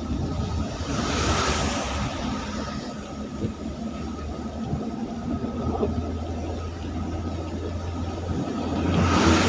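Road traffic on a rain-wet road: a steady low engine drone, with tyre hiss on the wet surface swelling as a vehicle passes about a second in, and again near the end.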